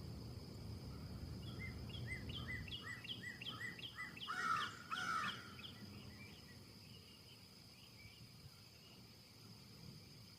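A bird calling a quick series of arched chirps, about three a second, growing louder toward the middle and then trailing off. Behind it a steady high thin tone and low wind rumble that eases off a few seconds in.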